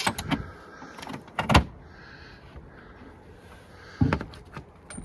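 Aluminum-clad siding panels being pried off and handled: a few sharp knocks and clatters, the loudest about a second and a half in and more near the end, with light scraping between.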